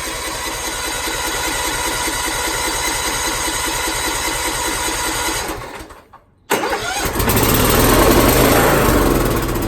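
2012 Cub Cadet riding mower's electric starter cranking the engine in a steady rhythm for about five seconds, after it has sat for four months. The cranking stops briefly, then resumes, and about seven seconds in the engine catches and keeps running, louder.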